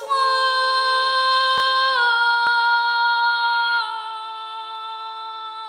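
A woman singing one long, drawn-out note in a slow worship song, stepping down in pitch about two seconds in and again near four seconds, then going on more softly.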